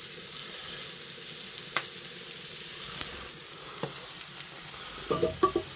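Food frying in a pan, a steady sizzle that eases slightly about three seconds in, with a couple of faint clicks.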